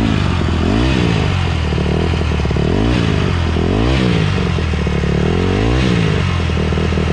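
Dirt bike engine running and being revved up and down about five times in short, uneven throttle blips by a beginner rider.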